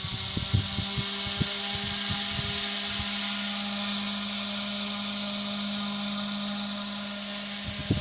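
1916 Emerson Northwind 8-inch fan running on high: a steady motor hum under the rush of air off the blades, with a few light ticks in the first three seconds. The hum stops just before the end.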